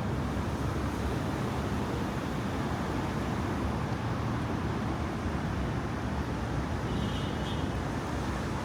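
Steady low rumbling background noise with no distinct events, and a faint brief high tone about seven seconds in.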